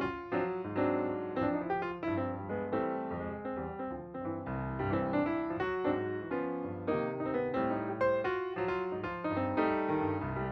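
Background piano music: a steady run of struck notes over sustained low chords.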